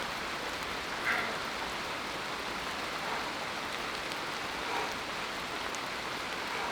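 Steady rain falling, an even hiss of drops on leaves and ground, with a brief faint sound about a second in.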